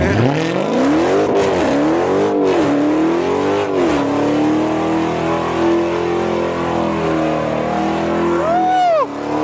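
A car engine revving hard in a burnout. It swells up and down several times, then holds at high, steady revs while the tyres spin. Near the end a second, higher-pitched engine blips once, sharply up and down.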